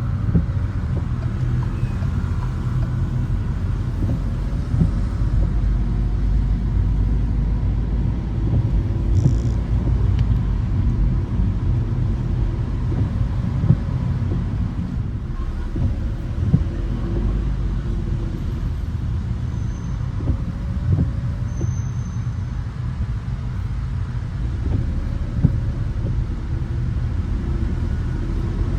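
Car driving on wet city streets: a steady low rumble of engine and tyres, with scattered short knocks throughout.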